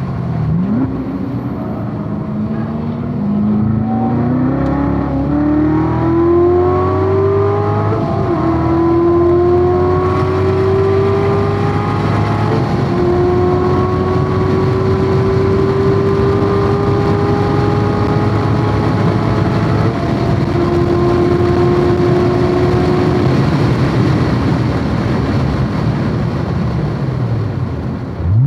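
C7 Corvette Z06's supercharged 6.2-litre V8 under hard acceleration, its pitch climbing through the gears with upshifts about 8, 12 and 20 seconds in, then a quick drop and rise right at the end. Wind and tyre noise run underneath.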